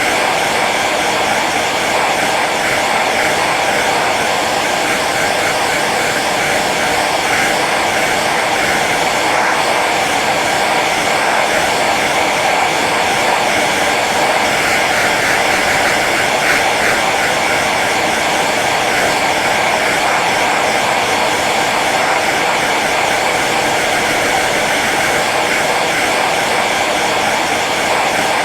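Hair dryer running steadily on its low setting: a constant rush of blown air over the motor's whine.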